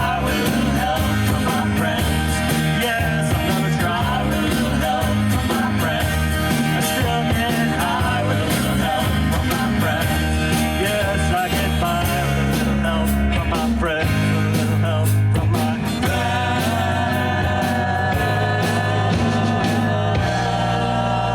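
A rock band playing, with guitar and singing, loud and steady throughout; the playing changes to longer held notes in the last several seconds.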